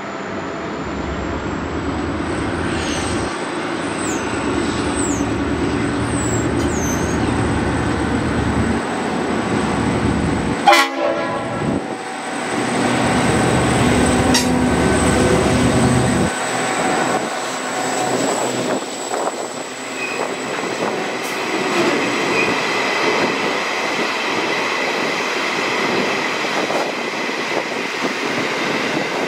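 A diesel freight train passing, led by a G class diesel-electric locomotive: the engine throbs deeply for the first half, with one sharp bang about 11 seconds in, then the wagons roll by with a steady rumble and clatter of wheels on the rails.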